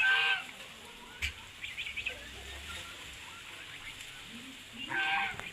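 Domestic fowl calling: two loud, short, pitched calls, one at the start and one near the end, with faint chirps in between.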